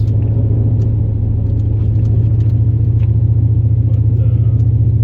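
Steady low drone of a 2002 Chevrolet Silverado plow truck's 8.1-litre big-block gas V8 as it drives along a snowy road.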